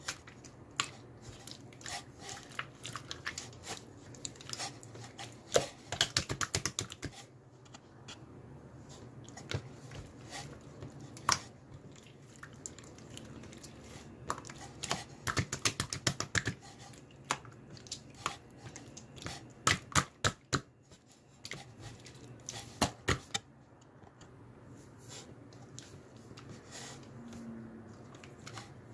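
Irregular runs of light clicks and taps, some in quick clusters, with short quieter gaps between.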